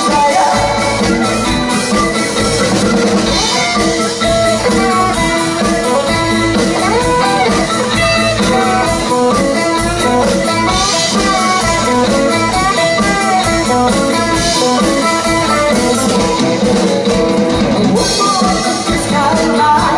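Rock band playing an instrumental passage, electric guitar over a drum kit with a steady beat.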